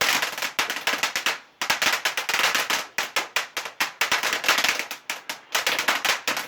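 Firework going off in fast runs of loud, sharp crackling bangs, many a second, broken by brief pauses.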